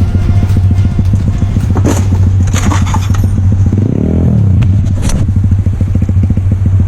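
Motorcycle engine running at low revs, with its pitch dipping and rising again about four seconds in. A few short clicks or knocks are heard over it.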